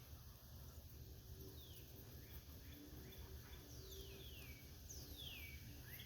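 Quiet outdoor ambience, with a bird giving a high call that slides downward, repeated a few times about a second or so apart.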